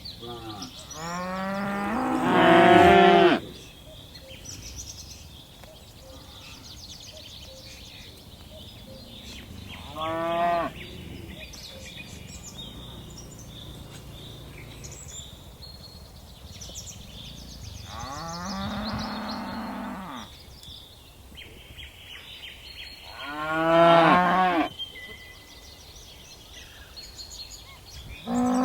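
Cattle mooing: four separate calls several seconds apart, the first a long one of about three seconds, the second short, and the first and fourth the loudest.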